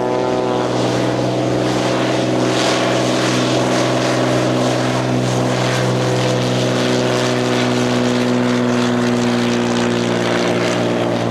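Cirrus SR22T's turbocharged six-cylinder piston engine and propeller at full takeoff power, a loud steady drone held through the takeoff roll and climb-out after the power has come up.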